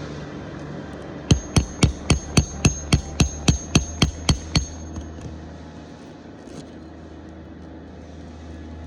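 A hammer striking rapidly, about thirteen blows at roughly four a second, with a high metallic ring carrying through the strikes, then stopping. A steady low hum runs underneath.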